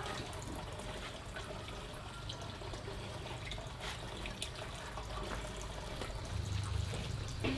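Running water, a steady wash of sound with a few light clicks and knocks.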